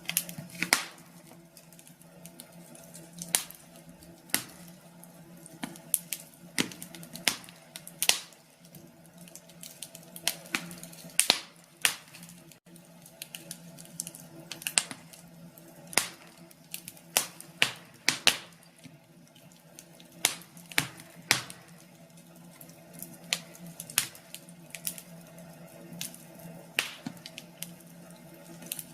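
Wood fire crackling: irregular sharp pops and snaps, sometimes several close together, over a faint steady hum.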